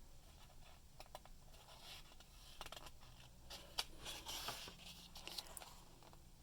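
Near silence with faint scratching and rustling and a few soft clicks, a little louder around four seconds in.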